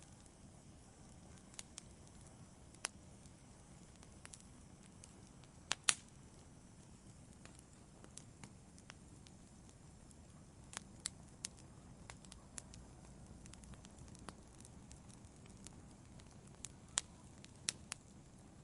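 Fire in a fireplace crackling: scattered sharp pops at irregular intervals over a low steady rumble, the loudest a quick pair of pops about six seconds in.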